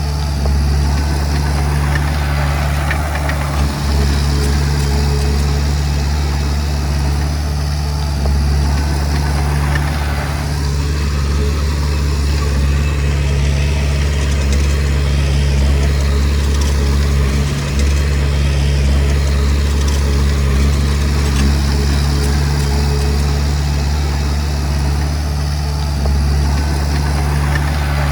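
Komatsu D20P bulldozer's diesel engine running steadily with a deep, even drone.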